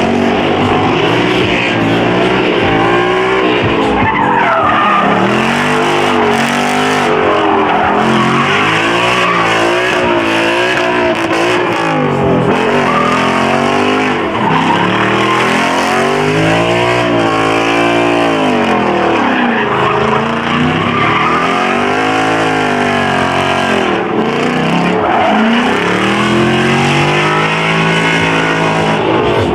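Car engine revving hard over and over, pitch rising and falling every couple of seconds, with tyres squealing and skidding: a burnout.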